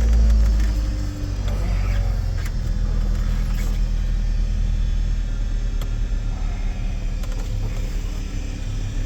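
2005 Ford Escape engine coming down from a rev during the first second, then idling steadily, still in its cold-start warm-up. A few light clicks are heard over the idle.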